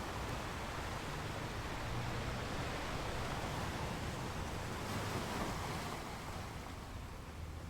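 Ocean waves washing on a shore, a steady rush of surf that swells about five seconds in and then eases off.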